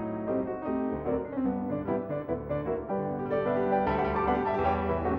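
Piano music: a run of notes over a lower accompaniment.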